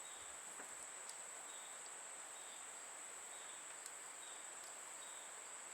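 Quiet room tone: a faint steady high-pitched whine over low hiss, with a few faint light clicks.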